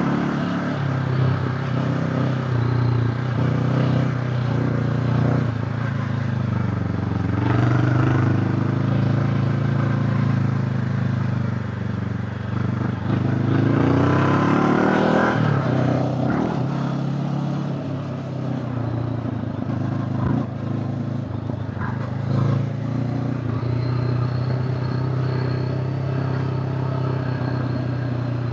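Honda CB500X's parallel-twin engine running steadily under way. About halfway through the revs rise for a couple of seconds and then drop back, with a few brief knocks along the way.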